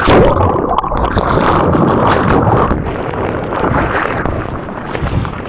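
Ocean water splashing and rushing close against a waterproof camera as a surfer goes out into the surf. The sound turns dull right at the start, with the top end cut off.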